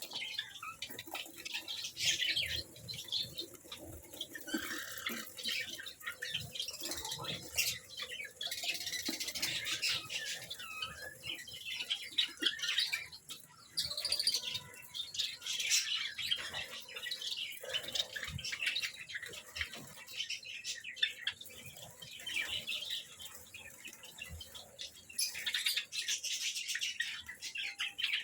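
Small pet cage birds chirping busily in short, high calls, with brief wing flutters and rustles among them.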